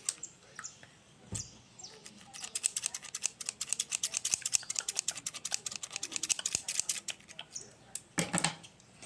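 Fingers tapping and pressing a squishy toy close to the microphone for ASMR, making a fast run of small sticky clicks, many a second, that picks up after about two seconds and eases off near the end.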